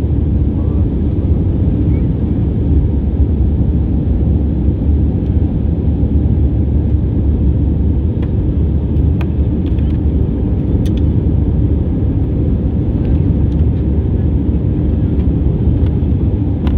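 Airliner during takeoff and climb: a steady low rumble of jet engines and airflow that holds an even level throughout, with a few faint ticks partway through.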